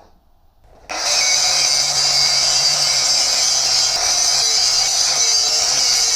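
A power tool starts abruptly about a second in and runs loudly and steadily on steel plate, with a high, hissing edge.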